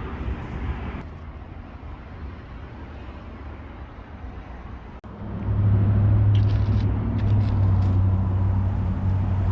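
Road traffic rumbling, then after a cut a loud, steady low drone of an idling motor-vehicle engine close by.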